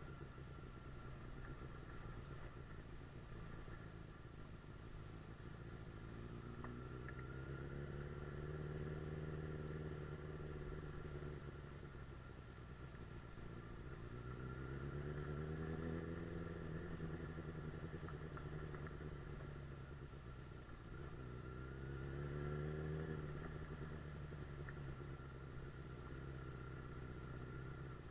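Suzuki GSF 600 Bandit's air/oil-cooled inline-four engine under way, its note climbing and falling back three times as the rider accelerates and eases off: about eight, fifteen and twenty-two seconds in.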